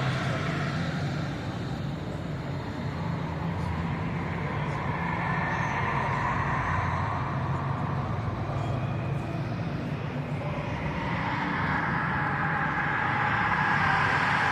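Car show ambience: a steady low engine rumble with indistinct voices in the background.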